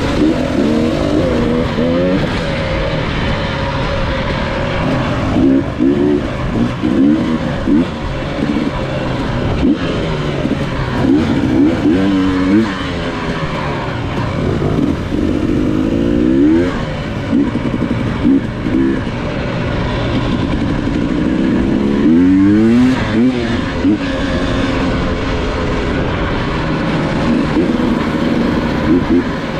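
Dirt bike engine revving while riding, its pitch rising and falling again and again as the throttle opens and closes, over a steady rush of noise.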